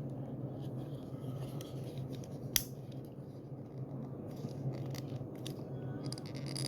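Small plastic clicks and light scraping as fingers work the loose rear window of a Majorette diecast toy car, trying to snap it back into place, with one sharper click about two and a half seconds in. A low steady hum runs underneath.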